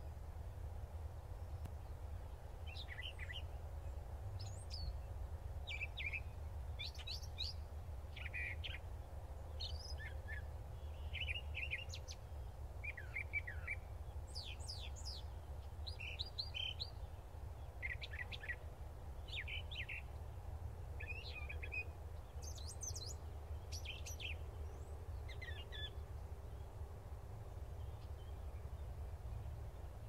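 A bird chirping: short, sharp chirp notes, many sliding steeply down, repeated every second or two and stopping a few seconds before the end. A steady low rumble lies underneath.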